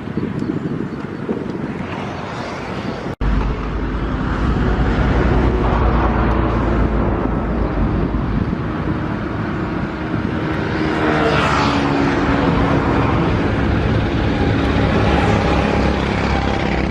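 A motor running steadily, with a low rumble and rushing noise. The sound cuts out for an instant about three seconds in, then comes back heavier in the low end.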